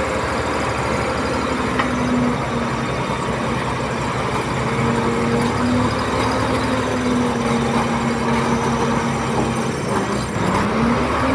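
Komatsu D31P bulldozer's diesel engine running under load, with a steady whine that dips briefly and climbs again near the end as the revs rise.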